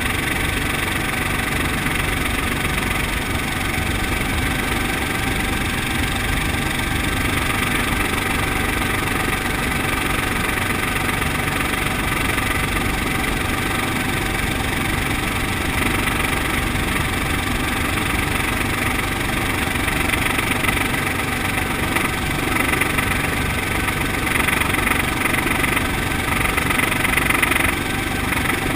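Brantly B2B helicopter's piston engine and rotor running steadily. The sound grows a little louder and brighter in the last several seconds.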